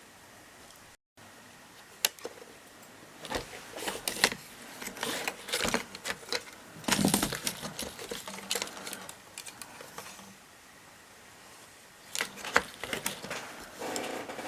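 Irregular clicks, taps and knocks of hard objects being handled, with short scraping sounds between them.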